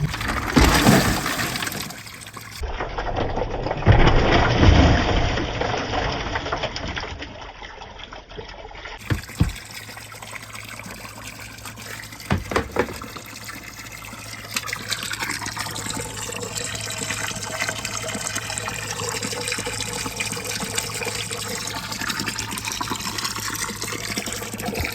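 Water pouring and gushing down a handmade marble run channel, with two loud surges in the first few seconds, then settling into a steady running flow. A few sharp knocks come about nine and twelve seconds in.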